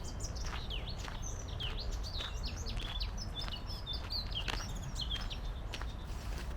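Several songbirds chirping and singing in quick, busy phrases, with footsteps on a park path and a steady low background rumble.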